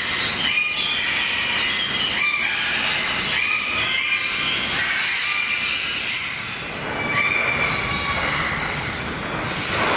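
Many birds calling at once, a dense chatter of short high chirps overlapping without pause.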